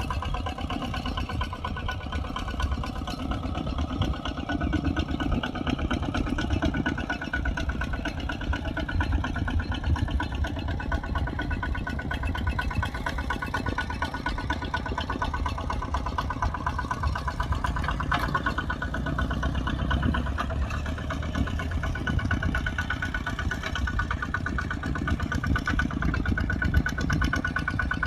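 Kubota RT140 single-cylinder diesel engine running steadily, with a fast, even beat of firing pulses.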